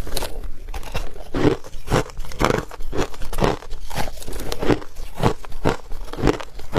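A person chewing ice close to the microphone: sharp crunches about two a second as the teeth break the ice.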